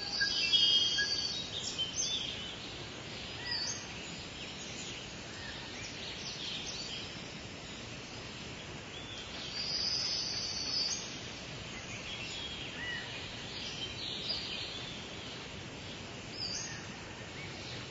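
Birds calling and chirping, several at once, over a steady outdoor hiss; the calls are loudest around the first second and again about ten seconds in.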